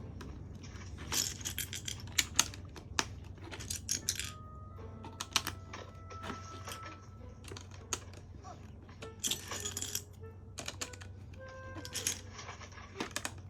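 Small plastic LEGO pieces clicking and rattling as they are handled and pressed together, in irregular bursts, over quiet background music.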